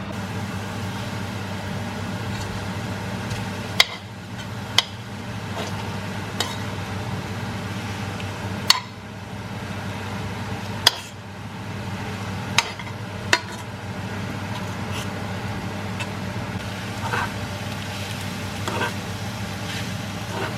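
Food frying in a pan with a steady sizzle and a low hum underneath, while a utensil strikes the pan or dishes in about six sharp clicks through the first two-thirds.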